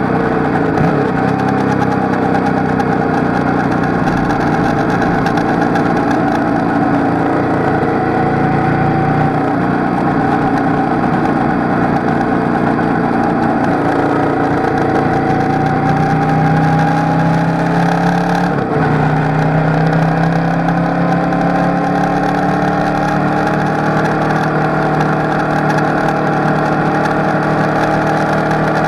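Motorcycle engine running at track speed, heard from on the bike, its pitch slowly rising and falling with throttle through the corners, with a short break in the engine note about two-thirds in, over a steady rush of wind.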